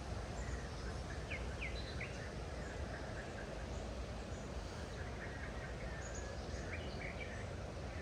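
Steady low outdoor background rush with faint birds calling over it: three quick chirps about a second and a half in, then more scattered short calls between about five and seven seconds.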